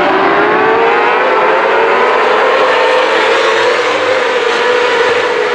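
Racing engine at high revs, its pitch climbing slowly through the first few seconds and then holding steady.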